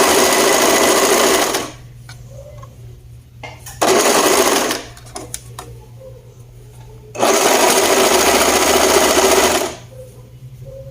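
Sewing machine stitching a blouse neckline in three runs: a long one at the start, a short one about four seconds in, and another long one from about seven seconds that stops near the end.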